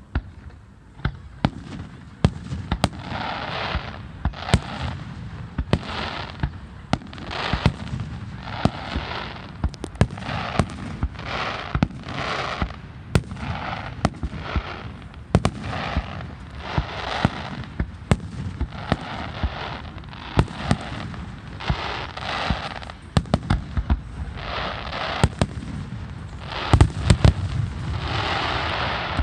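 Fireworks display: aerial shells bursting in quick succession, sharp bangs several times a second with stretches of crackle between them. The loudest volley comes near the end.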